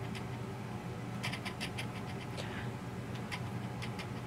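Someone chewing a Nutella B-ready wafer stick: a handful of short crunches, bunched together about a second in with a few more scattered later, over a steady low hum.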